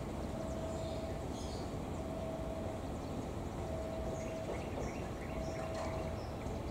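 Diesel locomotive hauling passenger coaches with a steady low rumble as it approaches slowly. Over it, an electronic warning tone beeps in even pulses about every second and a half, and birds chirp.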